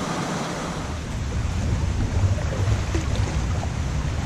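Steady rush of river water over a small rocky rapid, mixed with wind buffeting the microphone in a low rumble.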